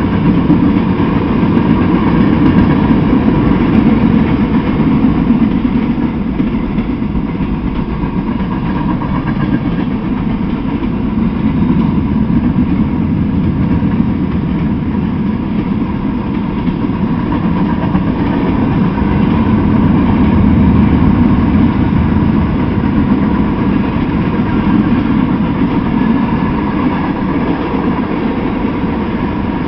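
Freight train rolling past, a run of covered hoppers, bulkhead flatcars and tank cars: a steady, loud rumble of wheels on rail that swells and eases slowly.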